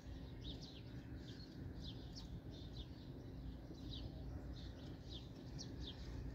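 Small birds chirping faintly: quick short high chirps, two or three a second, over a low steady room hum.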